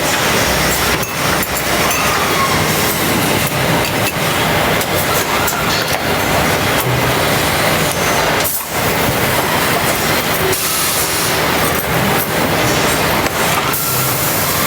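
Engine assembly line noise: steady, loud machinery running with scattered metallic knocks and clinks.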